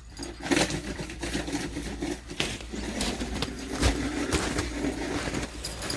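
Dogs playing, with low growling and scuffling.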